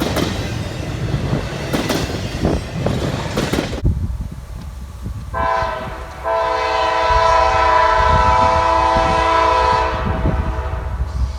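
Railroad cars clattering and knocking over the rails, then a multi-chime locomotive air horn: a short blast about five seconds in, followed by a long steady blast of about three and a half seconds, over the low rumble of the moving train.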